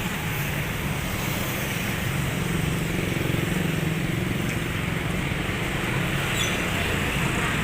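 Steady low rumble and hum of a passenger train.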